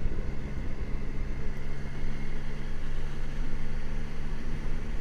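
Steady engine and road noise of a vehicle being driven, a constant low drone with no change in pace.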